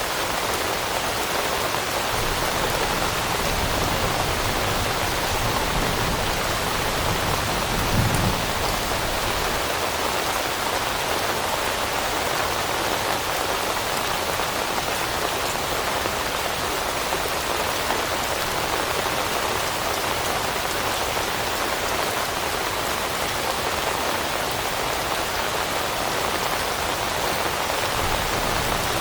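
Steady rain falling on leaves, an even patter throughout, with one brief low thud about eight seconds in.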